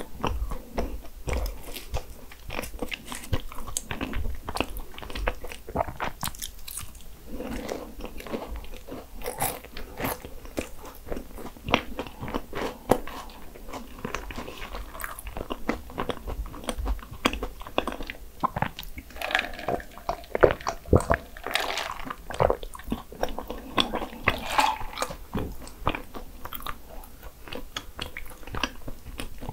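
Crunching bites and chewing of flaky Portuguese egg tart pastry, a dense run of small irregular crackles.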